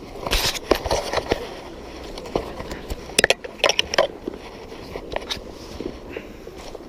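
Irregular clicks, knocks and scrapes, in two clusters: one in the first second or so and a sharper run about three seconds in.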